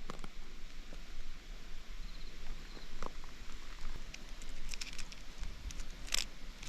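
Wood fire crackling, with a few sharp pops and snaps, the loudest near the end.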